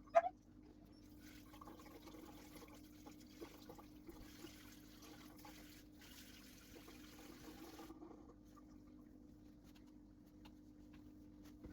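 Faint water running, with a quiet hiss that cuts off abruptly about eight seconds in, over a steady low appliance hum.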